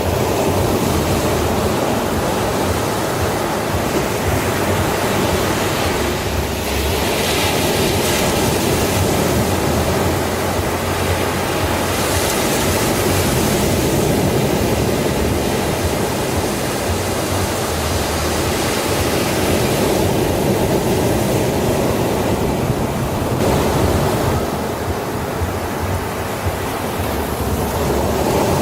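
Sea waves breaking on a beach: a continuous rushing wash that swells and eases every few seconds.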